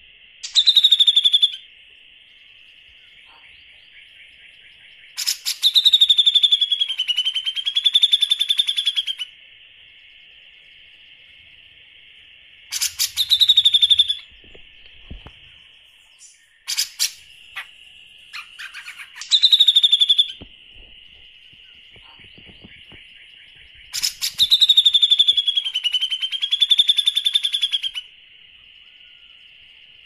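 Songbird calls in loud phrases every few seconds, some short and some several seconds long. Each starts with a sharp falling whistle and runs into a fast rattling trill. A steady high-pitched trill continues underneath.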